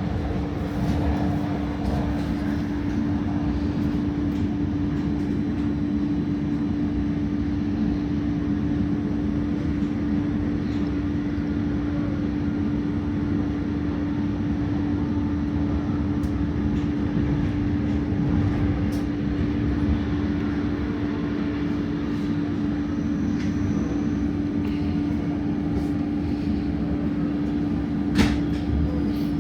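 Electric regional train running at speed: a steady low rumble of wheels on track with a constant hum, and one sharp click near the end.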